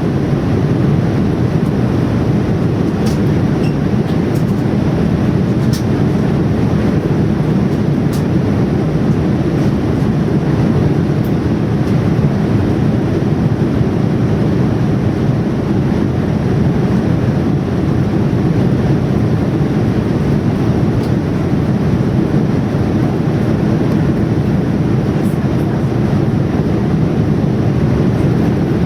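Steady, loud rushing noise of an airliner's jet engines and the airflow, heard from inside the passenger cabin.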